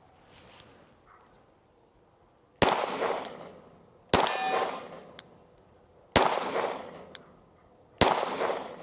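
Four 9mm pistol shots from a Glock 45, about one every two seconds, each echoing off briefly. The second is followed by the ringing clang of a steel target being hit.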